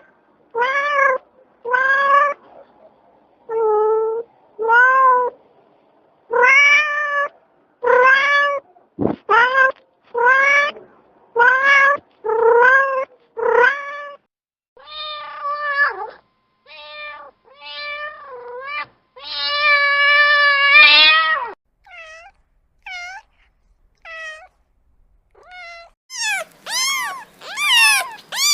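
Domestic cat meowing over and over: a string of short meows, one longer drawn-out meow about twenty seconds in, and higher-pitched, quicker mews near the end.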